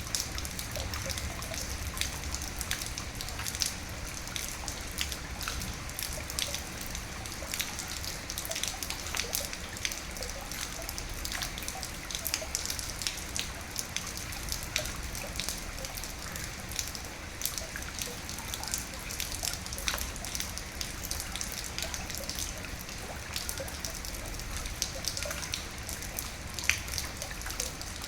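Steady rain, with many close drops ticking sharply over a continuous hiss and a low, constant rumble.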